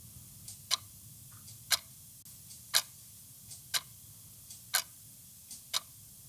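A ticking clock, about one sharp tick a second, each led by a fainter tick.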